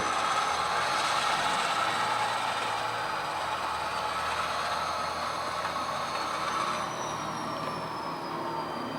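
HO scale model diesel locomotive running along the layout track: a steady mechanical hum of its motor and gears with a thin high whine that drops in pitch near the end as it slows.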